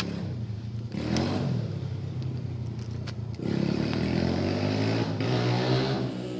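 Dirt bike engine running and revving, its pitch rising about a second in and again, louder, a little past three seconds in as the throttle is opened.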